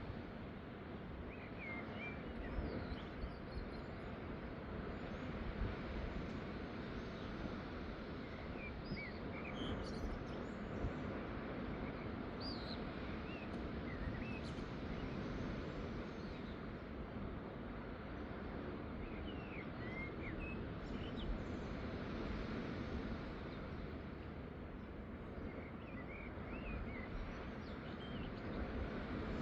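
Small birds chirping in short calls every few seconds over a steady low outdoor rushing noise.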